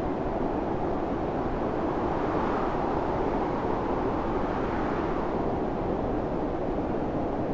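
Storm wind howling, a steady rushing noise that swells higher in pitch and sinks back again in the middle.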